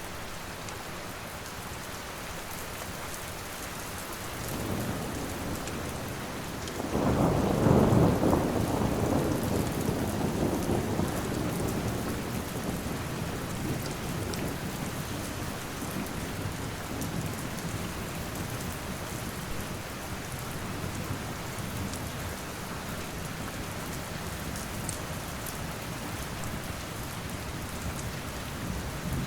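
Steady rain falling, with a roll of thunder. The low rumble begins about four to five seconds in, swells sharply about two seconds later and fades out slowly over several seconds.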